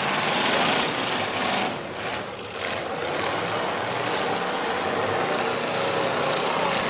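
Several demolition derby cars' engines running together in a steady, dense din of engine noise, dipping briefly about two seconds in.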